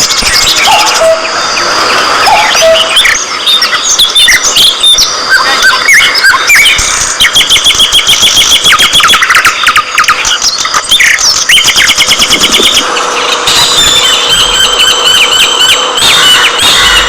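A group of budgerigars chattering together: many overlapping chirps and warbles, with fast runs of repeated notes.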